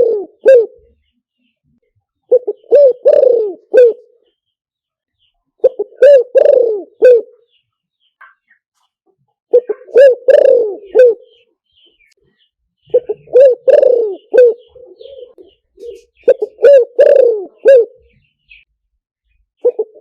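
Spotted dove cooing: short phrases of several coos, repeated about every three and a half seconds, six times.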